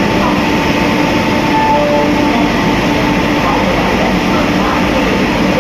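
WAG-9 electric locomotive running with a steady, loud hum and a few held tones.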